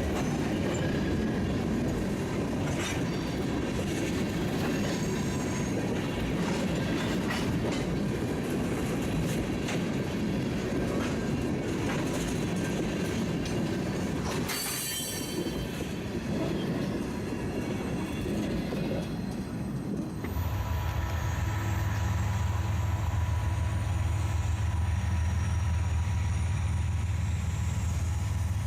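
Freight train rolling past with wheel clicks over the rail joints and a brief high wheel squeal about halfway. Then, after an abrupt change, a steady low drone of a diesel locomotive.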